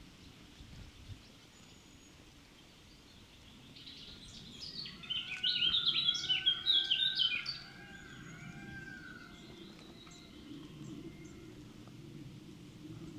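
A songbird singing a fast run of high, chirping notes for about three and a half seconds, starting about four seconds in, over faint outdoor background noise.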